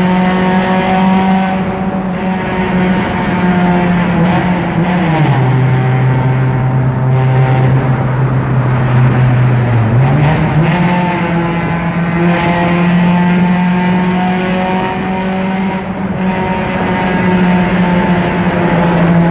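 Honda car engine running through a Varex exhaust, held at steady revs, easing down to lower revs about five seconds in and climbing back up about ten seconds in.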